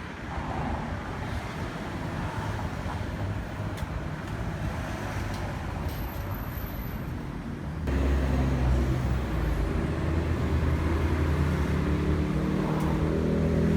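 A car on the move: steady tyre and road noise, then about eight seconds in a steady, low engine hum comes in louder and stays.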